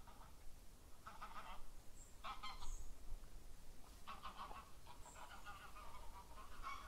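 Birds calling: several bouts of harsh calls, the last one longer, with a few brief high-pitched chirps in between.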